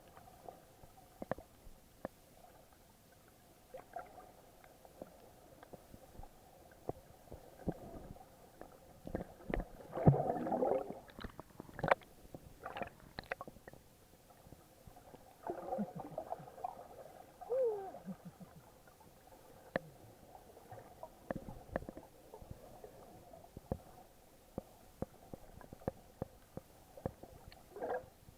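Muffled underwater sound picked up by a waterproof-housed action camera: water gurgling with scattered sharp clicks, and a louder rush of water about ten seconds in and again around sixteen seconds.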